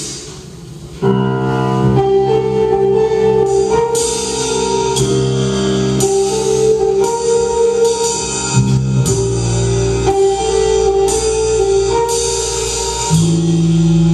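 A band playing live: held keyboard chords over drums keeping a steady beat, starting about a second in.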